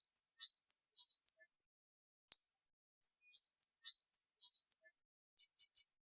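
Kemade bird calling: a loud run of sharp, high chirps, most of them sliding down in pitch, with one rising note about two seconds in and a quick group of three short clipped notes near the end. Clean silence lies between the notes.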